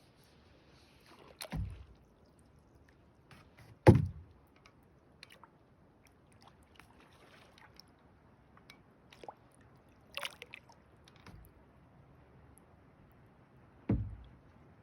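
Hollow thumps against a kayak hull, three of them, the loudest about four seconds in, with a sharper, higher knock or splash near ten seconds.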